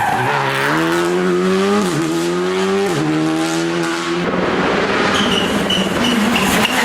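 Rally car engine accelerating hard, rising in pitch and dropping sharply at two upshifts about two and three seconds in. It holds steady for a moment, then blurs into a rougher, noisier sound over the last couple of seconds.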